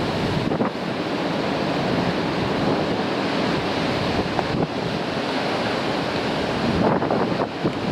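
Heavy surf breaking and washing over rocks, with strong wind buffeting the microphone; a steady roar of water and wind, swelling slightly near the end.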